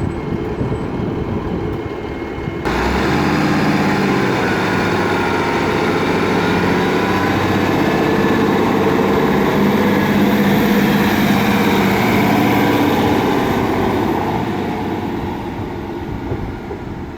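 A diesel train passing over a level crossing. It comes in suddenly and loud about three seconds in, runs with a steady low engine drone and rail noise, then fades away over the last few seconds.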